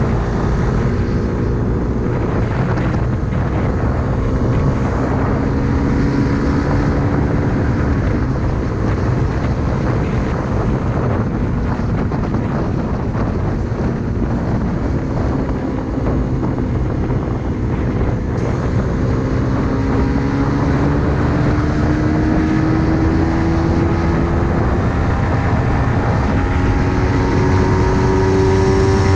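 Suzuki Raider R150 Fi motorcycle's single-cylinder fuel-injected engine running while riding, with wind noise on the microphone. The engine pitch climbs steadily through the last ten seconds or so as the bike speeds up.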